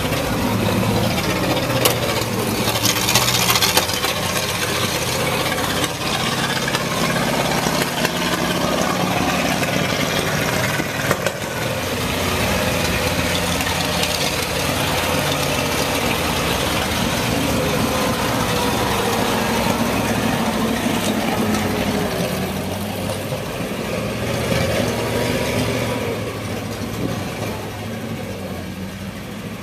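1946 Ford truck's flathead engine running continuously, its pitch rising and falling in places as the engine speed changes.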